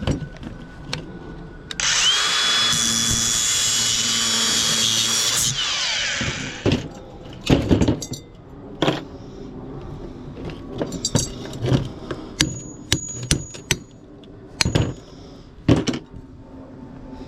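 A power drill runs for about four seconds: its whine rises as it spins up, holds steady, then winds down. Afterwards come scattered sharp knocks and clinks.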